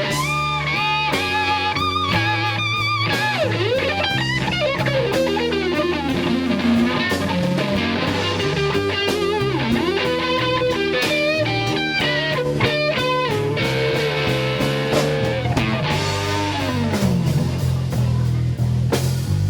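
Blues rock band playing an instrumental break: electric guitar solo with bent and vibrato notes over bass guitar and drums.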